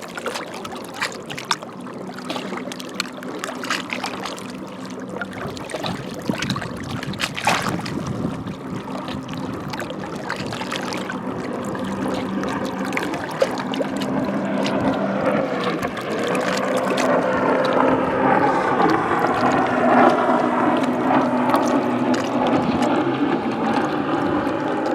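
Small waves lapping and splashing against rocks at the water's edge. In the second half a distant boat engine drone grows steadily louder.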